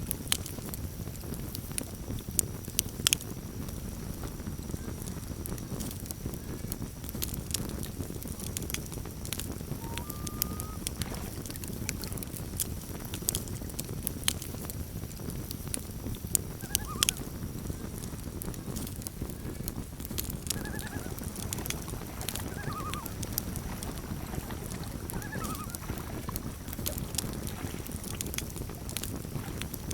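Campfire crackling, with frequent sharp pops over a steady low rumble of the burning wood; two louder pops about three seconds in and about seventeen seconds in. Faint short bird calls sound now and then in the background.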